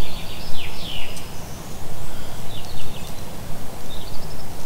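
Small songbirds chirping in short falling calls, a cluster in the first second and a few more near the end, over a steady low rumble.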